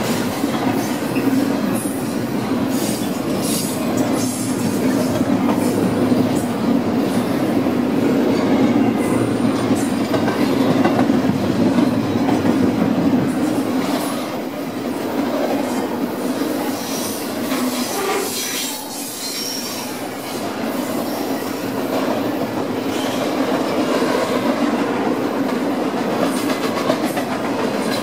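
Double-stack intermodal freight train's well cars rolling past close by: a steady rumble of steel wheels on rail, with many sharp clicks throughout.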